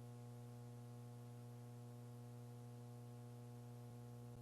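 Faint, steady electrical hum with a few higher overtones on the audio feed, and nothing else.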